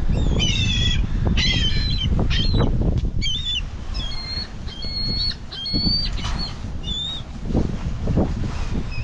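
A flock of gulls crowding in to feed, giving many short, high squawking calls over the flapping of wings, with wind rumbling on the microphone underneath.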